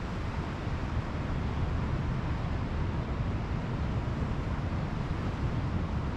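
Pacific Ocean surf washing on a beach, mixed with wind on the microphone: a steady, unbroken rush, heaviest in the low end.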